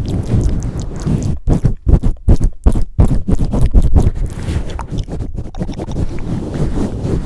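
Hands pumping and swirling over an ASMR microphone: muffled, irregular bassy thumps and rubbing, with a few quick cut-outs between about one and a half and three seconds in.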